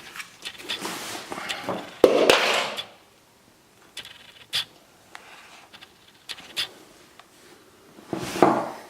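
Handling noises: scattered sharp clicks and scrapes, with a loud sudden rasping burst about two seconds in and another rasping swell near the end.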